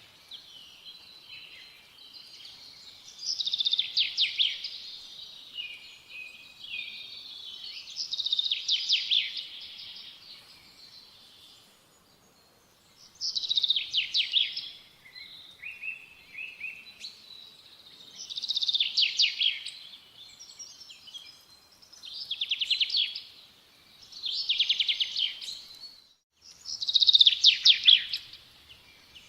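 A songbird singing short, rapid trilled phrases again and again, one every few seconds.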